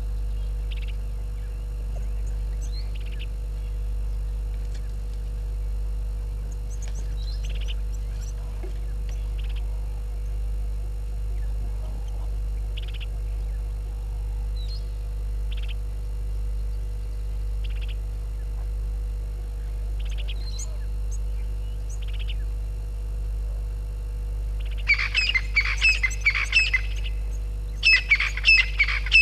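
Wild birds calling: scattered short chirps, then near the end two loud bursts of rapid chattering calls, over a steady low hum.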